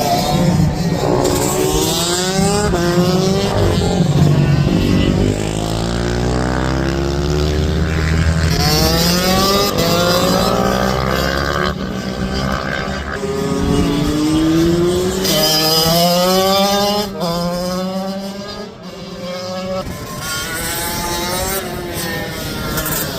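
Several racing minibike engines revving hard and overlapping, each note climbing in pitch through the gears and dropping back as the bikes brake and pass.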